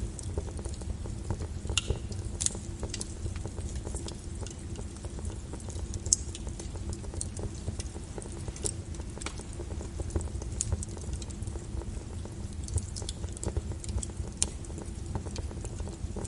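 Wood fire crackling in a fireplace: irregular sharp pops and snaps over a low steady rumble of the flames, with one louder pop about six seconds in.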